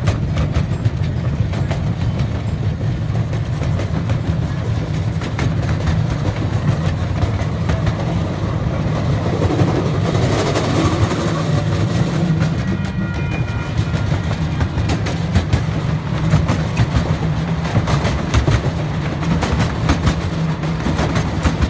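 Miniature park train's passenger cars rolling along the track: a steady low rumble with rapid clicking of the wheels over the rails, with a brief rush of louder noise about ten seconds in.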